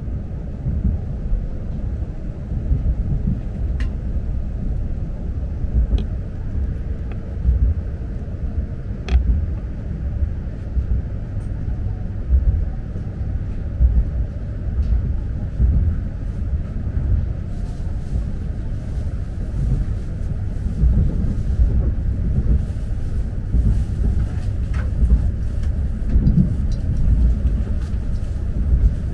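Cabin noise of an E6 series Komachi Shinkansen train running: a steady low rumble from the wheels and running gear, with a few light clicks.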